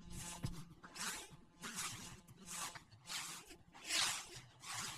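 Dog sniffing at a tree: short breathy snuffles, about one a second.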